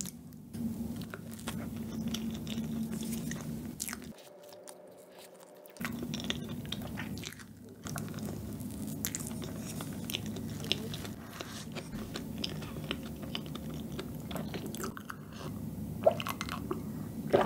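Close-up chewing of soft fresh cream cake: wet mouth sounds with many small lip and tongue clicks. Near the end there is a sip from a glass mug of iced coffee.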